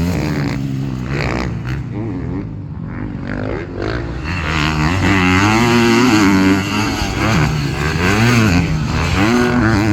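Dirt bike engine revving as it is ridden around a motocross track, its pitch repeatedly climbing and dropping with the throttle. It is quieter for a couple of seconds and louder again from about four seconds in.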